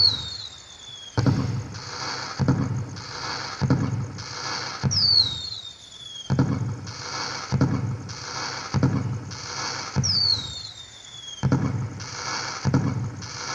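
Firework sound effect played by an LED pixel cracker decoration light: a falling whistle followed by a string of crackling bangs, repeating in an even loop about every five seconds.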